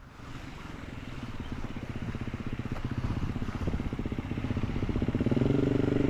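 Dirt bike engine approaching, its rapid firing growing steadily louder, with a clear engine note near the end.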